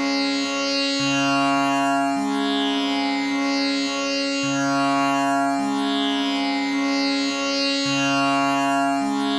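Tanpura tuned to C sharp (pehla kaala, A=440) droning steadily. Its strings are plucked one after another in a cycle that repeats about every three and a half seconds, each note ringing on with the buzzing, shimmering overtones of the jawari bridge.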